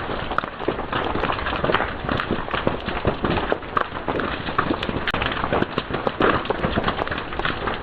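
Wood fire crackling: a dense, irregular run of sharp pops and snaps, many each second, over the steady hiss of the flames.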